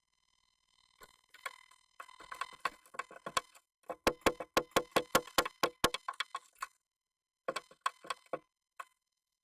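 Bursts of sharp, rapid tapping and scratching inside a wooden nest box as a Japanese tit moves and pecks about in it, about six taps a second at the busiest, with short pauses between bursts.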